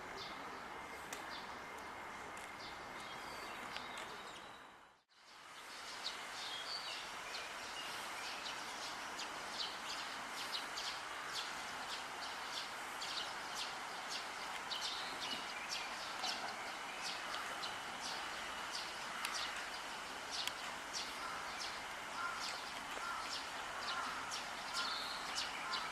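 Wooded park ambience with a steady hiss and many short, sharp bird chips, several a second, after a brief drop to silence about five seconds in.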